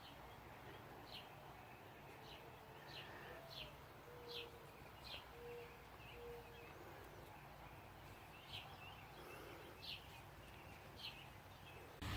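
Faint night-time outdoor ambience with about a dozen short, high chirps from an unseen animal, scattered irregularly.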